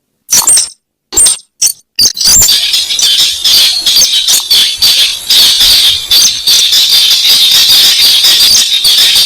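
Recorded lure call of a weris bird: a few short separate calls, then from about two seconds in a continuous fast, high rattling chatter.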